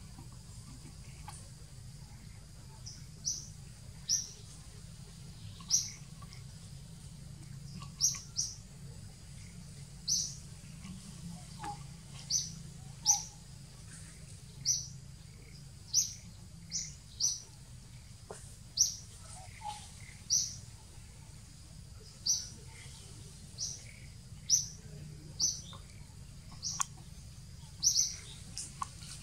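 A bird repeatedly calling a short, high single chirp, about once every second or so, over a steady low background hum.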